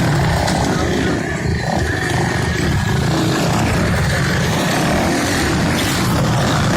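Motocross motorcycle engines running during a race, a loud steady din.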